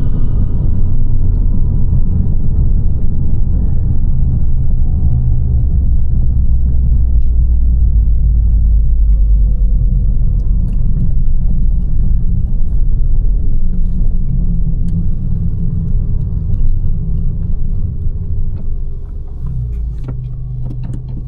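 Abarth 595 Competizione's 1.4 T-Jet turbocharged four-cylinder, breathing through a Record Monza exhaust, with a loud, steady low rumble while the car is driven. It eases off toward the end and settles into a quieter, steady idle.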